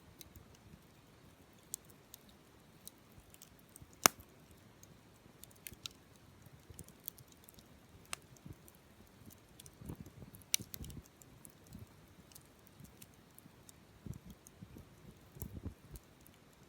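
Open wood fire crackling, with scattered sharp pops from the burning wood; the loudest pop comes about four seconds in, and soft low puffs are heard in the second half.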